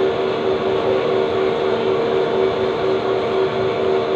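A steady machine hum with several held tones that do not change.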